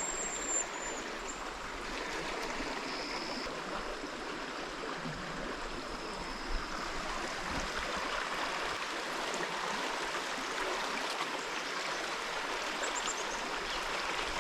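Steady rush and babble of a clear, shallow river running over its bed, with a couple of brief high chirps near the start and near the end.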